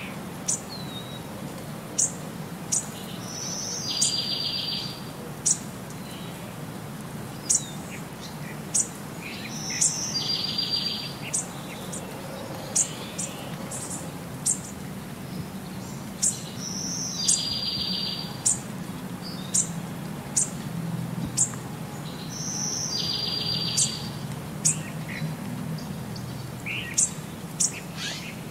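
Birdsong: short, sharp high chirps every second or so, with a buzzy trilled call of about a second that comes back every six and a half seconds or so, four times.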